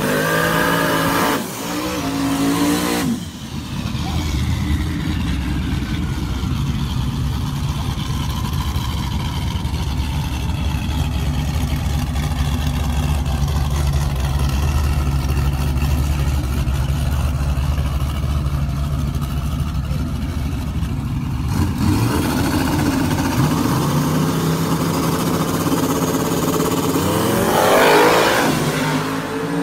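Fox-body Mustang no-prep drag car's engine revving in rising blips, then running at a steady low note for most of the time. Near the end it revs up again, loudest as the car pulls away.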